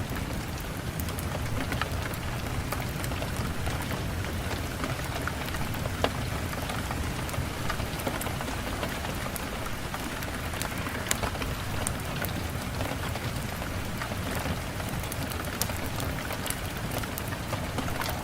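Steady rain falling, with scattered sharp clicks and ticks over it, the loudest about six and eleven seconds in.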